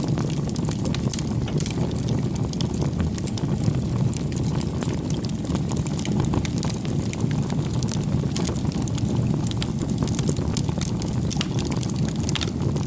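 Wood fire burning: a steady low rush of flame with many small sharp crackles and pops from the burning wood.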